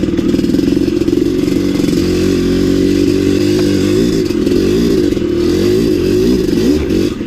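Maico 700's single-cylinder two-stroke engine running loud, at first at steady revs. From about two seconds in, the revs rise and fall repeatedly, as the throttle works under load on a climb.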